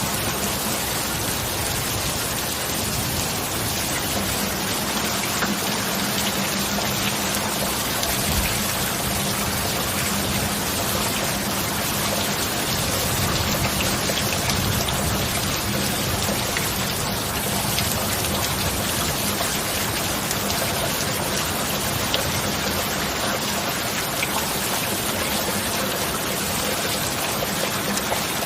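Steady heavy rain falling, a dense even patter with scattered individual drops, and a faint low steady hum underneath.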